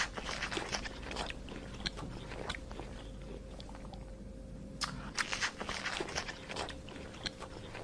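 Giraffe chewing, crisp crunching and munching in irregular clusters, with a denser run of crunches about five seconds in.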